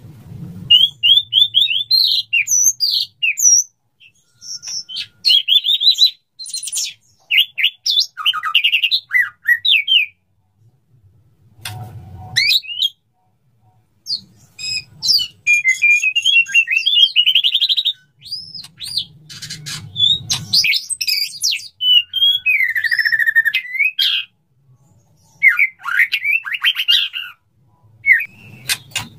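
Male white-rumped shama singing in a long run of varied phrases: quick whistles, chirps and sweeping notes, broken by short pauses. It is the courtship song of a male calling a female. A few brief low thumps come between the phrases.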